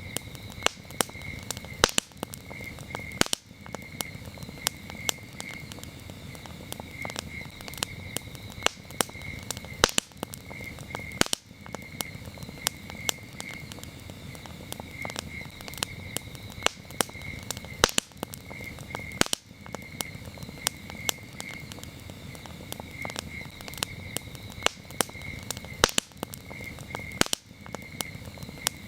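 Campfire crackling with frequent sharp pops and a few louder snaps, over a low steady rush. Crickets chirp throughout in quick pulsed trains.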